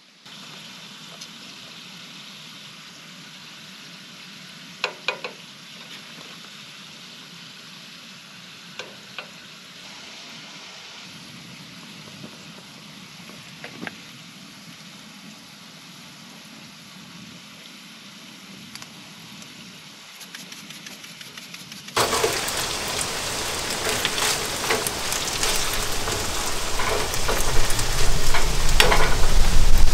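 Diced red potatoes frying in a skillet with a steady sizzle, broken by a few sharp clicks. About 22 seconds in, a much louder rushing noise with a low rumble takes over and grows.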